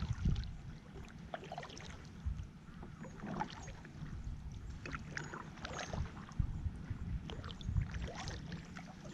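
Kayak paddle strokes in lake water: irregular splashes and drips from the blades, with a few low bumps.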